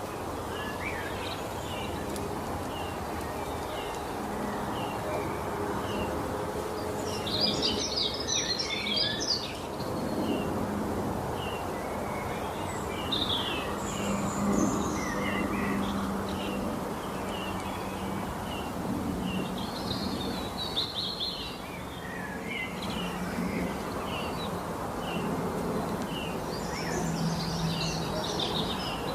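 Birds singing outdoors: a short chirp repeated about once a second, with bursts of busier twittering song about a third of the way in, around two-thirds in and near the end, over a steady background haze with a low hum.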